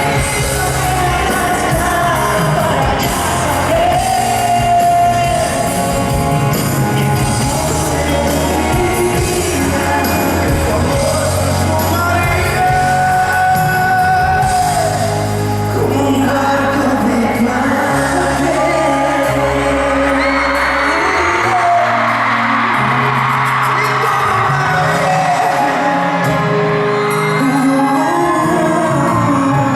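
Live pop duet: male voices singing a ballad over a backing band, with shouts from the audience.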